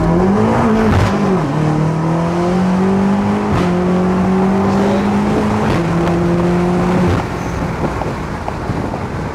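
Tuned BMW M8 convertible's twin-turbo V8 accelerating hard, heard from the open-top cabin: its pitch climbs and drops at each of about three upshifts, roughly two seconds apart, then it lifts off about two-thirds of the way through, leaving wind and road noise.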